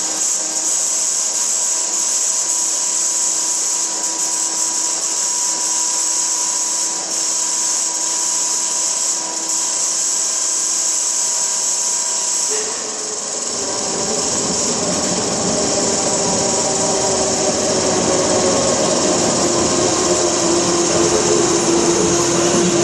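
High whine and hiss as the Pielstick diesel engine of an M47 locomotive is turned over for a cold start. About thirteen seconds in, the engine catches and runs with a deeper, lower sound that grows louder.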